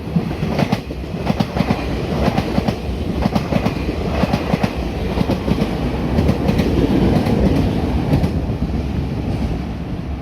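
Puyuma tilting express train passing through a station at speed, its wheels clacking rapidly and irregularly over the rail joints above a steady rumble. It grows louder to a peak past the middle and eases slightly near the end.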